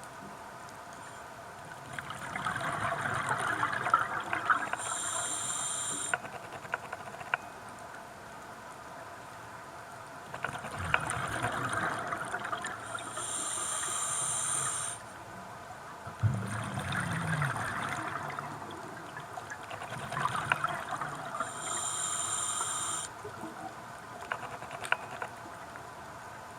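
Scuba diver breathing through a regulator underwater: about three breaths, each a few seconds of bubbling exhalation followed by a short hiss of inhalation.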